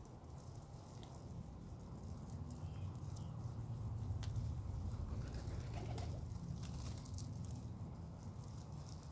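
Birds feeding: scattered sharp pecking taps and a pigeon cooing, over a steady low rumble.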